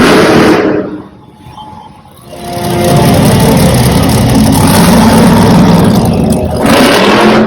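Monster truck engine revving hard: a short loud blast at the start, a lull, then the engine rises again about two and a half seconds in and stays loud, with a brief harsher burst near the end.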